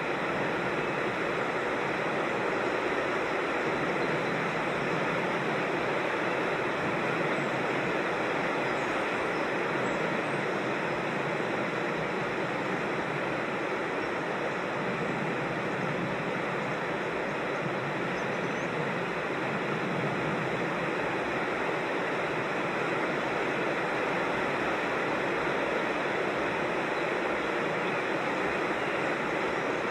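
Steady rush of flowing creek water, an even noise without rhythm or pitch.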